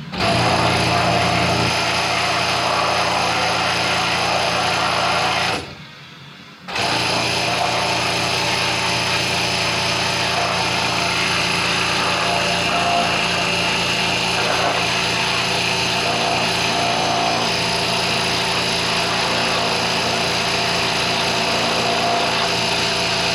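Pressure washer running, spraying a 351 Cleveland V8 engine block with a loud, steady hiss over the motor's hum. It cuts out for about a second some six seconds in, then starts again.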